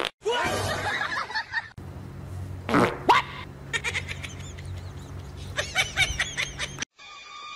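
A cat's wavering, bleat-like cry, then a string of short, high, rising-and-falling meows over a steady low hum.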